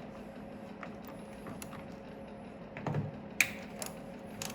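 Scattered light clicks and taps of hand tools on metal fasteners, with a duller knock about three seconds in.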